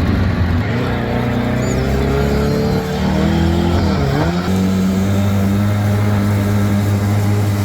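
Two-stroke outboard motors of a jet jon boat running under way. The engine note slides slowly, dips sharply about four seconds in, then holds steady.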